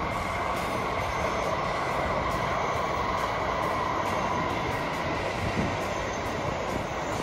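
N700-series Tokaido Shinkansen train running past, a steady rushing noise of the train in motion.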